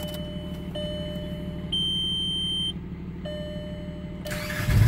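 Car dashboard warning chime beeping in tones about a second long, one louder and higher about two seconds in, over a low rumble. Near the end the 1.9 L ALH four-cylinder turbodiesel cranks briefly and catches.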